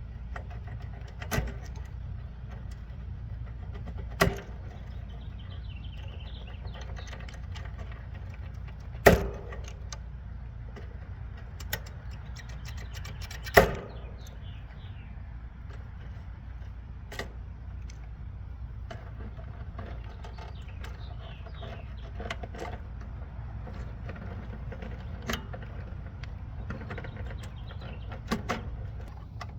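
Scattered sharp clicks and knocks as wires and their connectors are pulled off an air-conditioning control board, about eight over half a minute, over a steady low hum.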